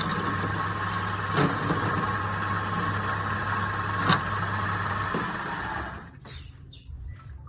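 A woodworking power tool's electric motor runs steadily with two sharp knocks, then is switched off about five seconds in and dies away within a second.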